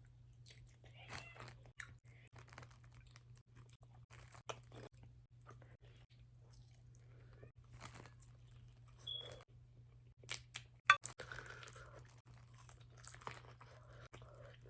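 A person eating a shrimp and crawfish boil close to the microphone: scattered wet chewing, crunching and mouth clicks, with a sharp snap about eleven seconds in. A faint steady low hum runs underneath.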